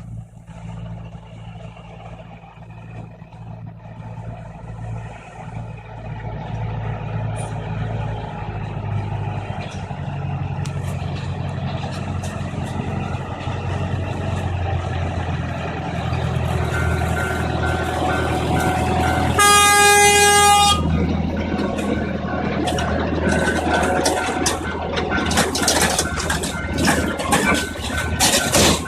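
A small forest-railway trolley train running, its engine drone steadily building as it gets under way. About twenty seconds in, a single horn blast lasts a second or so, and then come rapid clicks and clatter of wheels over the track.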